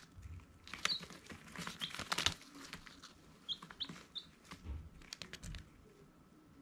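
Baby chicks peeping: a handful of short, high chirps, three of them in a quick run near the middle, over frequent light rustling and sharp tapping clicks.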